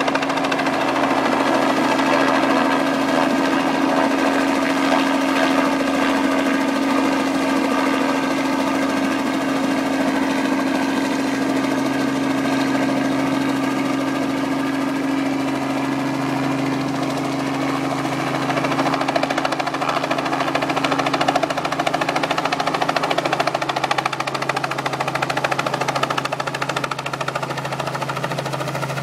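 Rescue helicopter's rotors and turbine engine running steadily: a fast, even chop over a constant hum.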